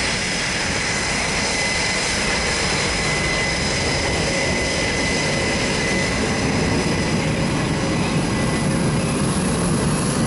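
C-17 Globemaster III's four turbofan engines running steadily during a low, slow flypast: an even jet rush with a steady high whine over it, growing slightly louder toward the end.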